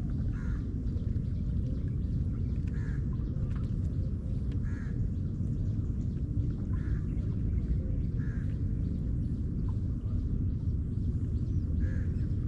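A crow cawing, short single calls about every two seconds, over a steady low rumble.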